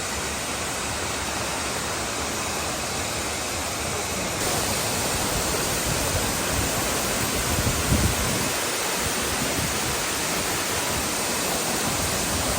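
Steady rushing wind noise on the microphone, as when riding at speed, stepping up louder about four seconds in, with a few low buffeting gusts near the eight-second mark.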